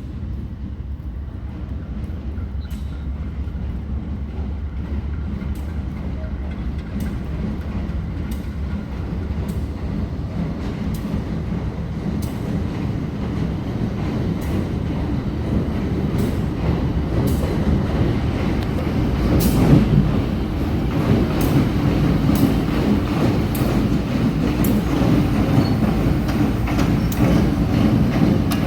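Diesel freight train led by GE B39-8E locomotives running, a steady low engine drone with regular clicks about once a second, growing gradually louder.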